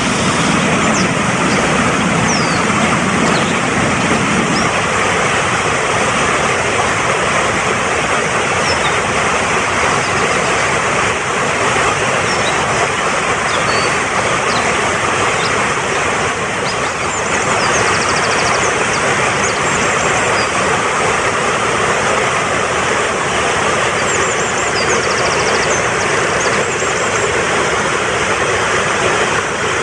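Fast-flowing mountain stream rushing steadily over rocks, with small birds chirping high above it and a few quick trills.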